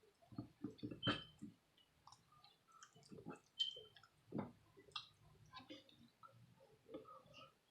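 Close-miked chewing of creamy shrimp alfredo pasta: soft wet smacks and mouth clicks at an irregular pace, quiet. Two brief high pings sound, about a second in and just past the middle.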